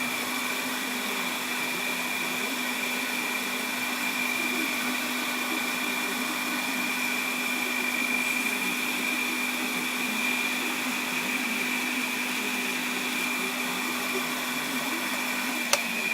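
Small lathe's electric motor running steadily at speed, a steady whine over a rushing hum, with a single sharp click near the end.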